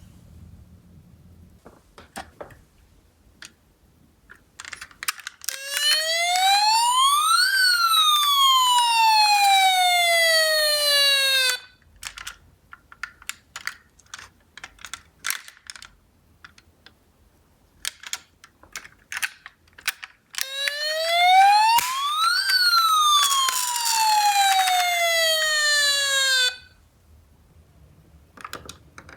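Toy ambulance minicar's electronic siren sounding twice. Each time it is one slow wail that rises and then falls in pitch, lasting about six seconds. In between are light, scattered clicks and rattles.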